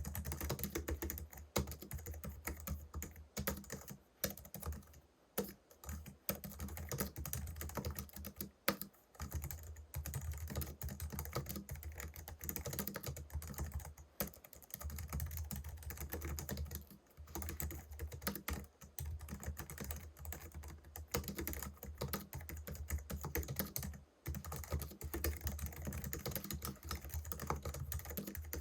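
Continuous typing on a Logitech MX Keys Mini wireless keyboard, its low-profile scissor-switch (pantograph) keys making rapid clicks, broken by a few brief pauses.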